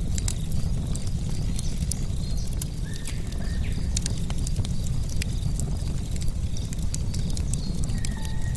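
Wood fire crackling, with frequent sharp pops and snaps over a steady low rumble of the flames. Short high chirps of birds or insects come and go behind it.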